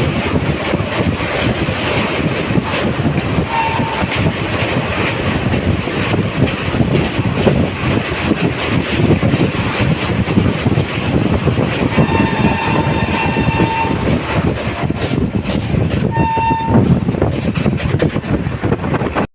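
Train running with a steady heavy rumble. Its horn sounds three times: a short blast about three and a half seconds in, a longer one of about two seconds around twelve seconds in, and a short one near the end.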